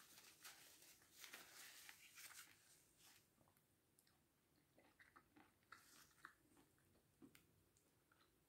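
Faint close-up chewing of meringue with sour cream: soft crunching and crackling through the first few seconds, then scattered small wet mouth clicks.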